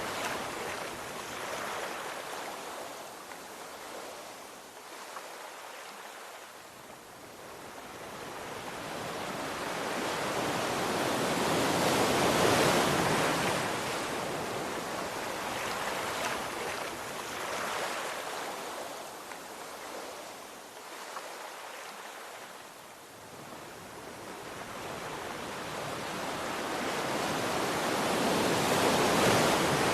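Sea waves washing onto a shore in a steady wash of surf that swells and ebbs slowly, with two big surges: one about twelve seconds in and one near the end.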